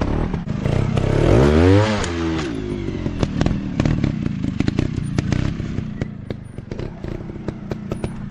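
Dirt bike engine running, revving up and dropping back once about a second and a half in, over a steady run of sharp clattering knocks.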